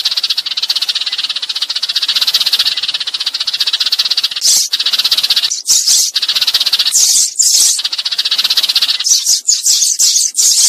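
Sparrows giving a fast, dry rattling chatter, with louder, higher chirps breaking in several times from about four seconds in: sparrow flock-calling used as a lure.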